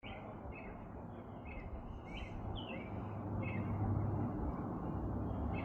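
American robin singing its evening song: a string of short, clear whistled phrases with brief pauses between them. A steady low rumble of background noise runs underneath.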